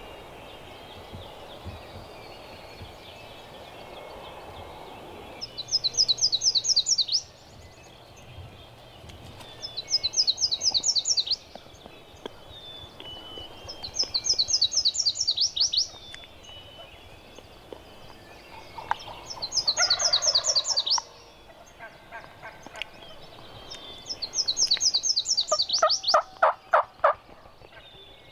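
Wild turkey toms gobbling from the roost: lower, rattling gobbles come about two-thirds of the way in and again near the end. A high, fast-pulsed bird call repeats about every four or five seconds throughout and is the loudest sound.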